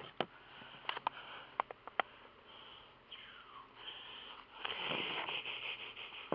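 Strap being fastened around a beehive nuc box: a handful of sharp, irregular clicks in the first two seconds, then rubbing and swishing noise that grows louder about five seconds in.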